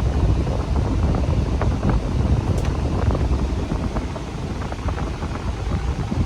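Semi truck's diesel engine idling, with the cab fan blowing: a steady low rumble under an even rush of air.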